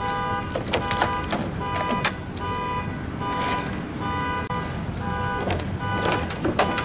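A multi-tone car horn sounding short repeated blasts, roughly one a second, with sharp cracks between them, over a steady engine rumble.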